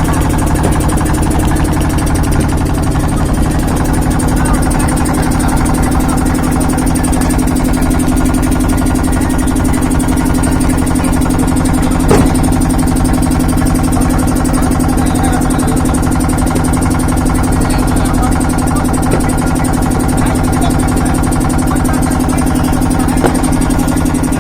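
A steady low mechanical hum, even throughout, with a single sharp knock about halfway through.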